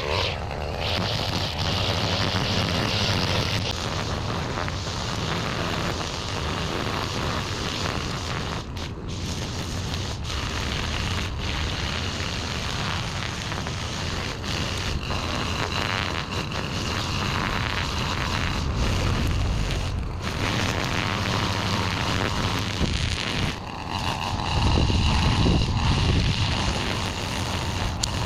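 A string trimmer running steadily while cutting weeds. Its pitch and level shift briefly about three quarters of the way through, and it runs a little louder near the end.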